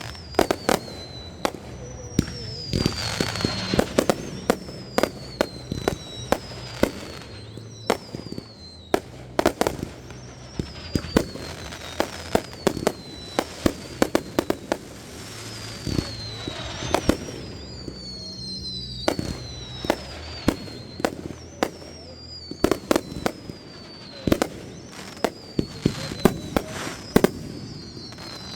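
Fireworks going off: a dense run of sharp bangs and crackles, with high whistles that fall in pitch and repeat every two to three seconds.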